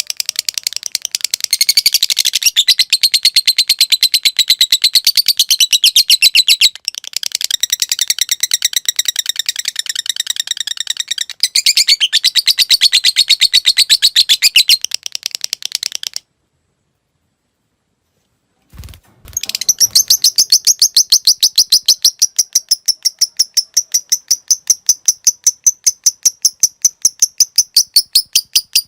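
Lovebird's long 'ngekek' chatter: a fast, even run of sharp, high chirps going on for many seconds. It stops abruptly about halfway through for two seconds of silence and a brief low bump, then another long run starts.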